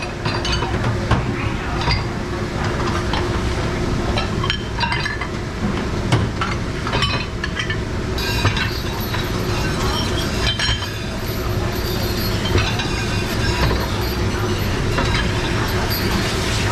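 Plates, glasses and silverware clinking and clattering as they are handled in a restaurant dishpit, many separate knocks over a steady background hum.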